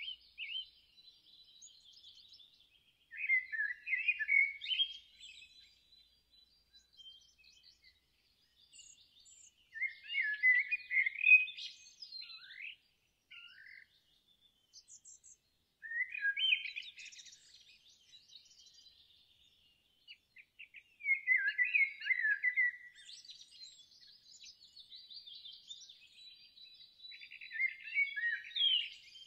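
Songbird singing short, busy song phrases about every five to six seconds, with fainter chirps and a thin high note in between.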